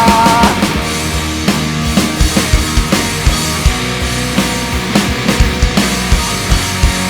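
Live rock band playing an instrumental passage with drum kit, bass and distorted electric guitar, no singing. A held high note fades out about half a second in, and then the drums keep a steady beat under the guitars.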